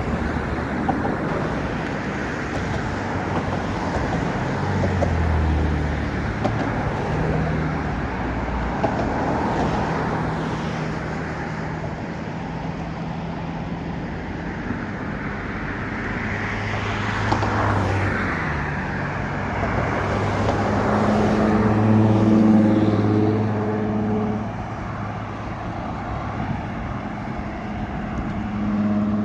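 Road traffic: the steady noise of cars driving by, with engine hum and tyre noise swelling as vehicles pass, the loudest passing about three quarters of the way through.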